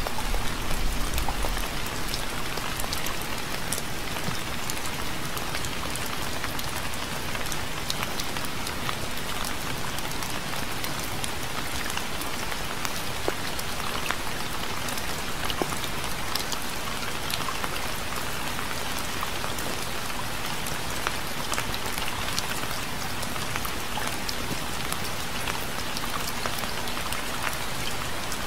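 Steady rain pattering on a surface: an even hiss with many separate drop ticks. A brief low rumble sits under it in the first second or two.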